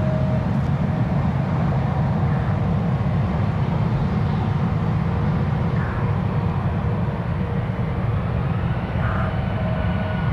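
Jet airliner engines running, a steady low rumble with a faint high whine over it.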